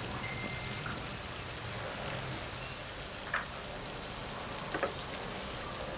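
Okra and dried prawns sizzling steadily in oil in a frying pan, chopped tomatoes just added on top. A couple of faint clicks about three and five seconds in.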